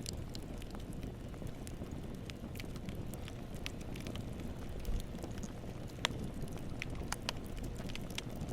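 Campfire burning: a steady low rumble of flames with scattered sharp crackles and pops from the burning wood, one louder pop about six seconds in.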